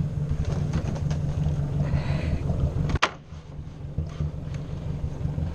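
Ford 600 tractor's four-cylinder engine running steadily. A sharp click about three seconds in, after which the sound briefly drops quieter before the engine comes back up.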